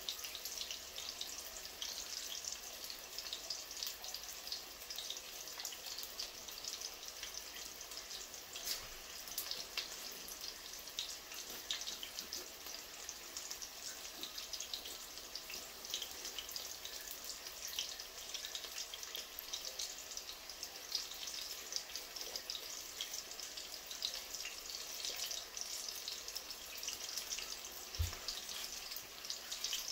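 Saltfish fritter frying in shallow oil in a pan: a steady sizzle full of small crackles and pops. A single low thump near the end.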